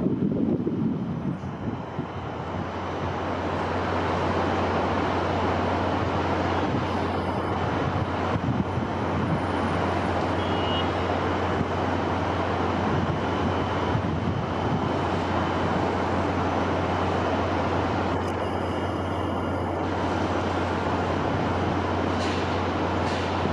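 Steady rushing wind, an even hiss with a constant low hum underneath.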